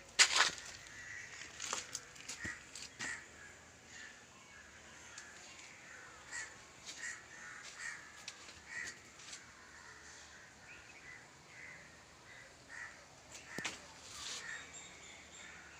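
Birds calling repeatedly outdoors, short calls coming one or two a second, with a few sharp knocks mixed in; the loudest knock comes right at the start.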